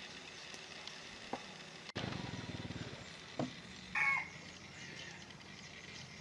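A bird's short, harsh call about four seconds in, over faint outdoor background; a low buzz lasts about a second just before it, around two seconds in.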